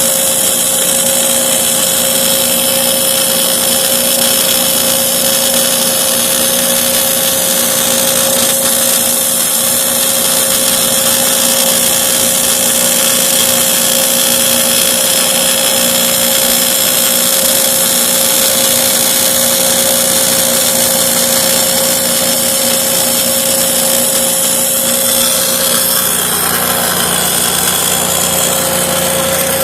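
Portable line boring machine running steadily under power, its drive motor giving a constant whine over a hiss.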